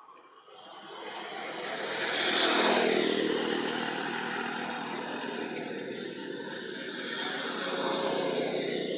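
A motor vehicle driving past close by, its engine and tyre noise building over the first few seconds, peaking with a falling pitch sweep and then staying loud.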